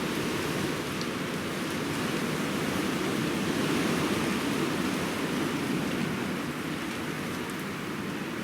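Steady outdoor rushing noise that swells slowly toward the middle and eases again, with no distinct events.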